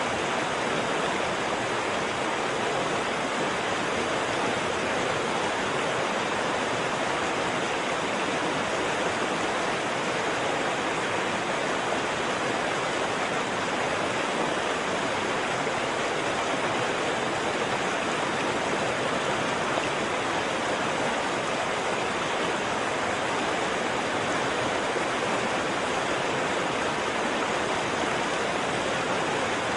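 Waterfall rushing steadily: a dense, even wash of falling water with no breaks or changes.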